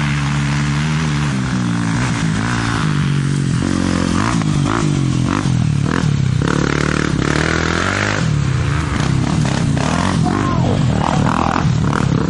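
Motorcycle engine running hard at speed, its pitch steady at first and then rising and falling several times from about four seconds in with throttle and gear changes.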